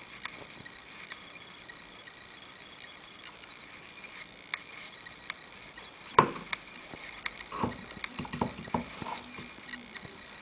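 Handling noise from hard objects: scattered light clicks, a sharp knock about six seconds in, then a run of irregular clunks and clicks.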